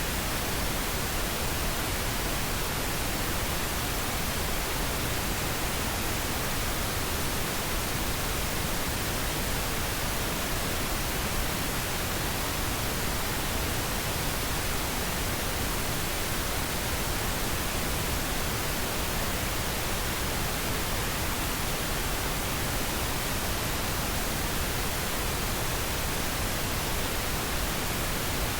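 Steady white noise: an even, unchanging hiss with no rhythm or events in it.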